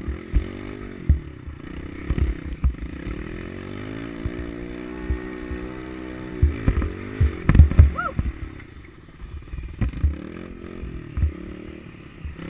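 Small four-stroke pit bike engine revving up and down as it is ridden, with repeated heavy low thumps and clatter over it.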